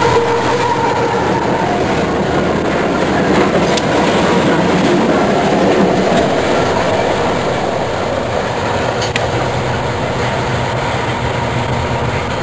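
Diesel-electric freight locomotives of a CSX train passing close by, a steady heavy rumble of engines and of wheels on the rails.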